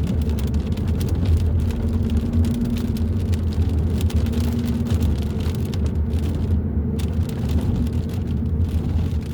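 Hyundai i30 N Line being driven, a steady low drone of engine and road noise with a faint humming tone that fades in and out.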